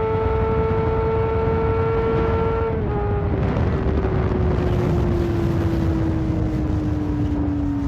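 Motorcycle engine on the move, holding a steady note that rises slightly. Almost three seconds in, the note steps down and then falls slowly and steadily as the engine slows, over a constant low rush of noise.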